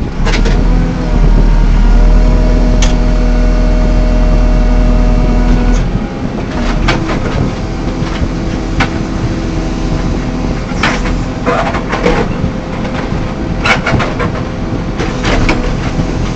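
JCB 3CX backhoe loader's diesel engine running, held higher and louder for about the first six seconds, then settling to a lower, steady run. Several sharp knocks come through over the second half.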